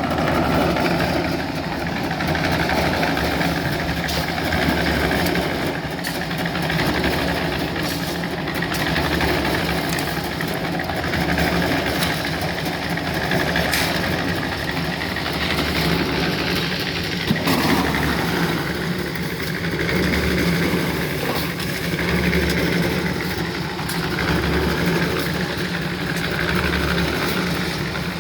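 An engine on the concrete-slab site runs steadily and loudly, its level swelling and falling regularly about every two seconds.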